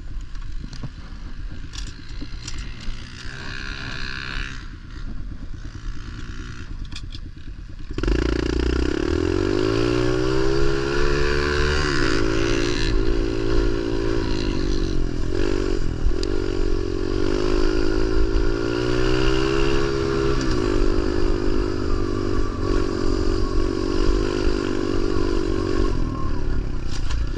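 Pit bike engine being ridden, its pitch rising and falling as the throttle is opened and closed. It is quieter at first, then suddenly much louder about a third of the way in.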